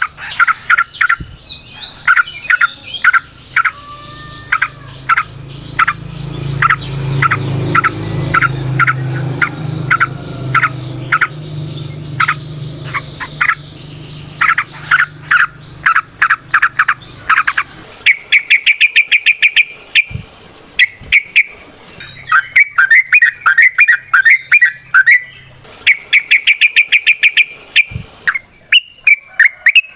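Yellow-vented bulbul (trucukan) singing. First comes a long run of short chirps at about two to three a second; about two-thirds of the way in it switches to fast, rattling trilled bursts.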